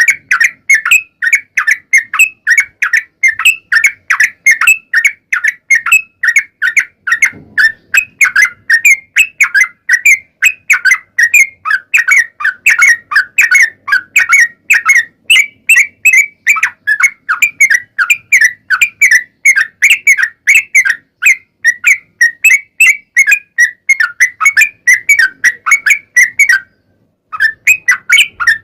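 Yellow-vented bulbul (trucuk) singing a long rapid run of bright chirping notes, about four a second, without pause. The song breaks off for a moment about 27 seconds in and then picks up again.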